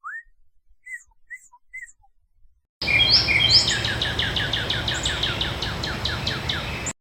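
Northern cardinal singing: a few short upward-slurred notes, then a fast series of repeated downward-slurred notes, about four a second, over a steady background hiss.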